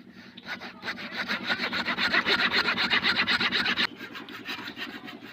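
A saw cutting through tree wood in a fast, even run of rasping strokes over a steady hum. The cutting is loud until nearly four seconds in, then drops sharply and goes on more quietly.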